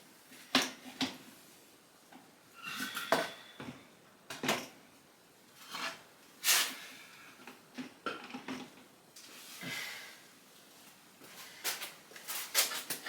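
Intermittent metallic clanks, clicks and knocks, a dozen or so spread out, some with a brief ring, as loose engine parts and hand tools are moved around and set down on a bench.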